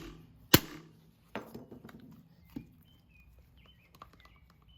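A single sharp knock about half a second in, then a few much fainter knocks, from the OTF knife being hit and strained during an abuse test. Faint bird chirps are heard in the background.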